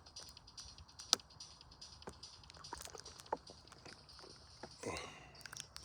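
Footsteps crunching along a trail at a walking pace, over a steady high chorus of night insects. There is a brief louder sliding sound about five seconds in.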